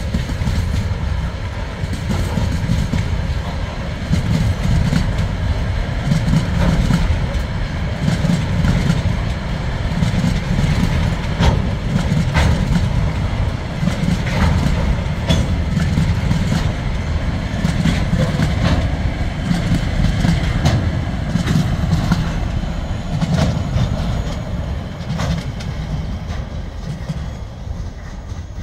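Freight wagons (container flats, then coal hoppers) rolling past: a steady low rumble of steel wheels on rail, broken by irregular clicks and clunks. The sound eases off near the end as the last wagon goes by.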